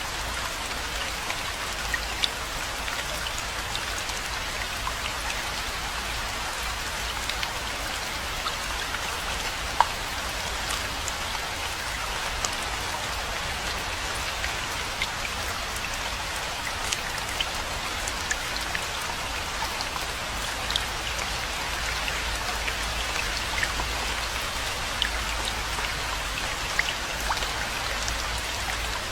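Steady rainfall with many individual drops ticking close by, one sharper drop about ten seconds in.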